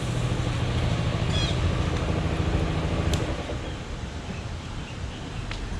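A motor vehicle's engine running at a steady speed, a low even hum that eases off slightly in the second half.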